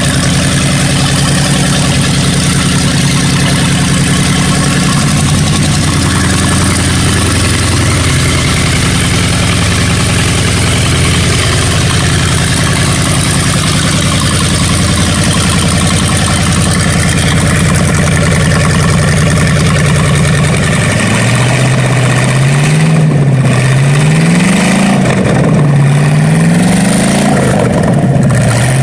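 Freshly rebuilt 1955 Ford 272 Y-block V8 running on its first start-up, idling steadily. In the last several seconds it is revved up and let back down about three times.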